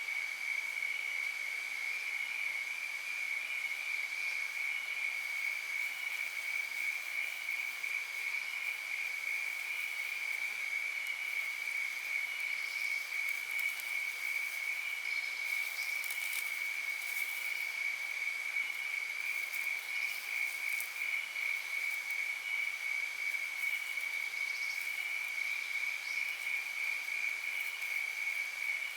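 Insects trilling steadily on one high, unbroken pitch, with a few faint high clicks in the middle.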